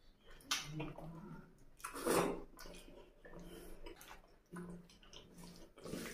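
Wet, open-mouthed chewing and slurping of fatty mutton curry and rice, in irregular smacks and squelches, loudest about two seconds in, with squishing from fingers working the oily gravy into the rice near the end.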